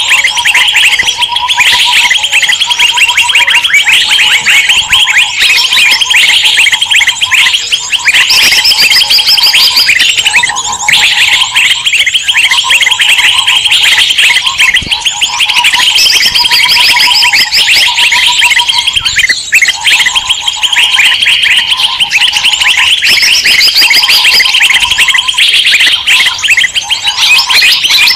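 A dense, noisy chorus of many small songbirds chattering and calling at once, used as a lure recording to draw wild birds in. Rapid high chatter runs throughout, with short repeated whistled phrases layered beneath it.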